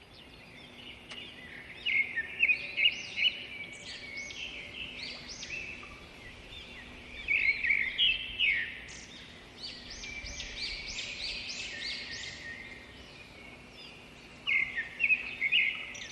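Birds chirping: many short, arching high notes come in clusters, in several bursts, over faint background hiss.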